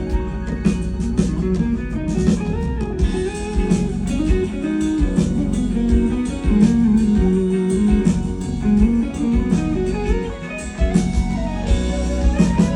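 Live band playing an instrumental passage between sung lines, a guitar carrying the melody over steady drum hits.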